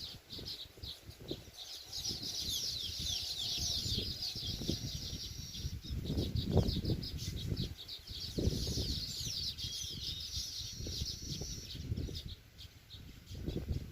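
Weaver birds, baya weavers, chattering and singing in a fast, wheezy, sizzling chatter, densest through the middle and tailing off near the end, over irregular low rumbles.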